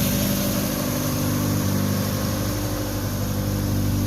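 1985 Honda Prelude's 2.0-litre four-cylinder engine idling steadily.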